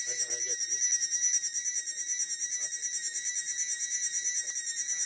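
Cicada singing loudly: a steady, high-pitched buzz that pulses rapidly in loudness.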